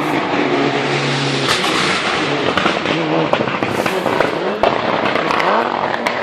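Rally car engine running hard at high revs, with pitch steps like gear changes and repeated sharp pops and bangs from the exhaust; the engine note falls in pitch near the end.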